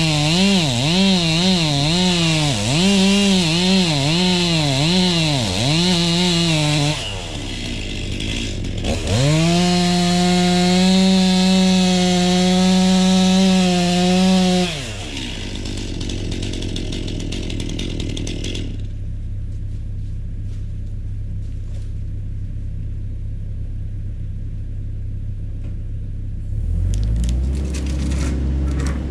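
Two-stroke chainsaw revved up and down in quick blips for several seconds, dropping back about seven seconds in, then held at high revs for about five seconds before falling away to a quieter steady rumble. A deeper, lower engine note comes in near the end.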